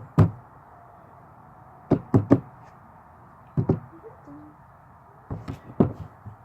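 A series of dull knocks in small groups: a couple at the start, three quick ones about two seconds in, two more a little later, and several near the end.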